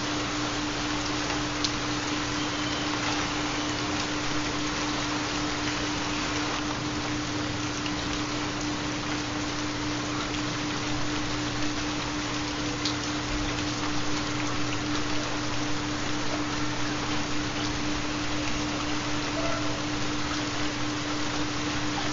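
Steady, dense rainfall with the odd sharper drop tick, laid over a constant low tone: the carrier of a 4 Hz theta binaural beat.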